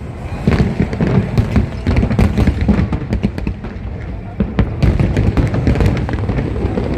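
Fireworks display: a dense, continuous run of booms from bursting aerial shells, with sharp cracks over a constant low rumble.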